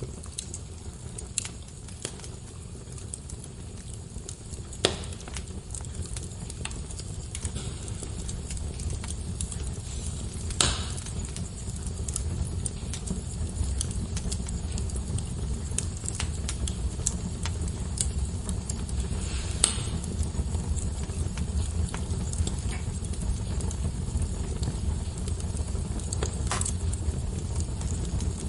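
Fire burning in a fireplace: a steady low rumble of flames with scattered crackles and a few sharper pops.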